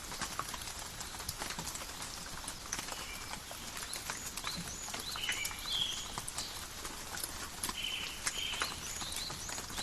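Steady forest rain, with drops dripping and pattering sharply on leaves, while small birds chirp repeatedly in short high calls, a little louder about halfway through and again near the end.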